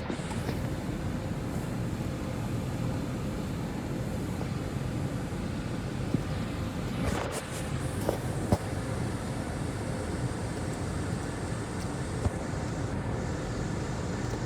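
Car engine idling steadily with a low rumble, with a few light clicks.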